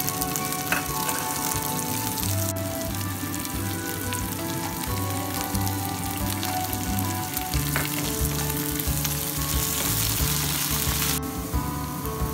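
Onions, peanuts and taro sizzling in oil in a nonstick wok as they are stir-fried with a wooden spatula. The sizzle grows louder suddenly about two seconds in and drops back suddenly about a second before the end.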